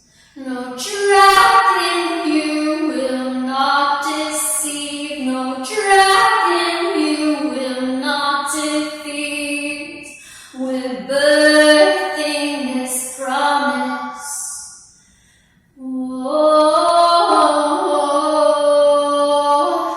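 A woman singing a wordless-sounding, unaccompanied worship song in long, bending phrases, pausing briefly twice between phrases.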